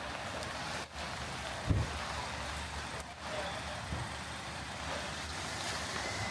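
Steady hiss of rain on a city street with traffic noise. There is a low thump about a second and a half in and a few short sharp ticks.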